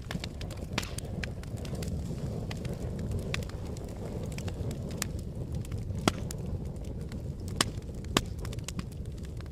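Fire burning with a steady low rumble and scattered sharp crackles, with a few louder pops in the second half.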